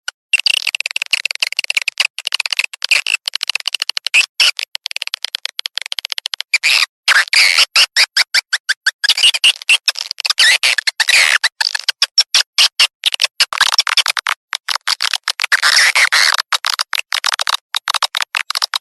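Swiftlet lure call recording, the sound played from tweeters to draw edible-nest swiftlets into a nesting house: dense, rapid twittering chirps of many birds, with a brief break about seven seconds in.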